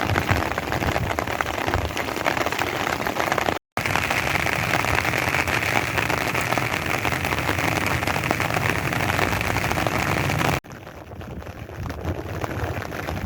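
Steady rain falling on wet pavement, a dense hiss of drops. It cuts out for an instant near four seconds in, and about ten and a half seconds in it drops abruptly to a quieter rain.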